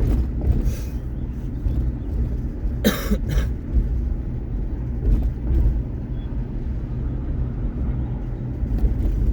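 Steady low engine and road rumble heard from inside a moving vehicle's cab, with a short cough about three seconds in.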